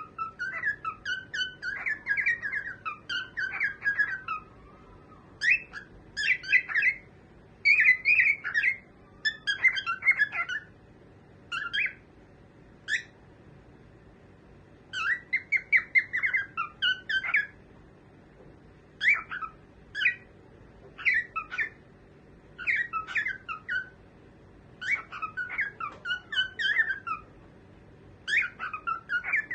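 Pet cockatiel chirping in bouts of quick, rapid chirps, each bout lasting one to three seconds, with short pauses between them.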